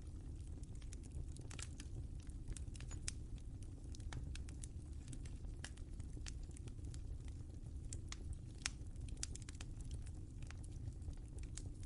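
Wood fire crackling in a fireplace: irregular sharp pops and snaps over a steady low rumble of the burning fire, with a few louder pops.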